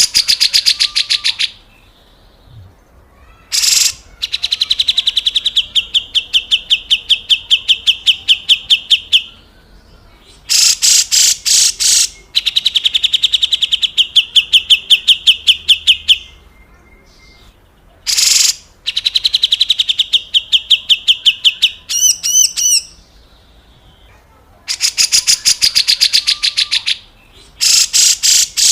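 Cucak jenggot (grey-cheeked bulbul) giving its harsh, rasping 'besetan kasar' rattle calls: fast, evenly spaced pulses running in trains of a few seconds each with short pauses between them. A brief different warbled note comes about two-thirds of the way through.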